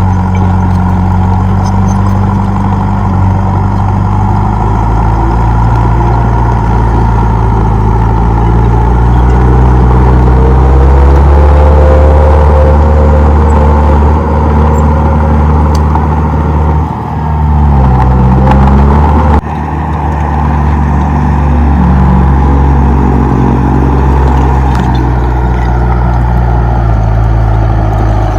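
Komatsu D31P bulldozer's diesel engine working under load, its pitch climbing about a third of the way in, then dropping sharply and recovering about two-thirds of the way through.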